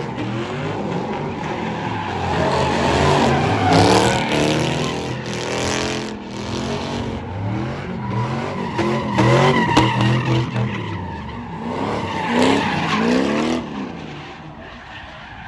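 A performance car's engine revving hard up and down again and again while its tyres skid and squeal. It dies away near the end.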